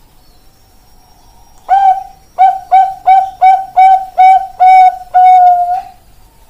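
Bangkok-strain zebra dove (perkutut) singing. About two seconds in comes a run of roughly eight short coos at one steady pitch, ending in a longer held final note.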